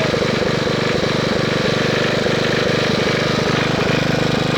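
Wisconsin S-8D single-cylinder air-cooled engine of a 1969 Bolens 850 garden tractor running at a steady speed, with a rapid even firing beat.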